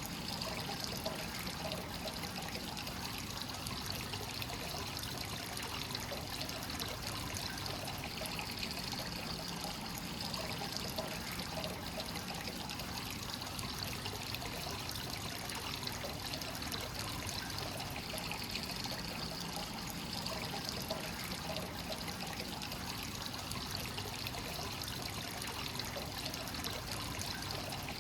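Free-flowing hot spring water pouring steadily into a bath, a continuous trickling and splashing without a break.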